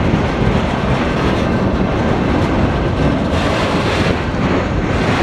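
Freight train cars rolling past on the rails, a steady loud wheel-on-rail noise with some clatter.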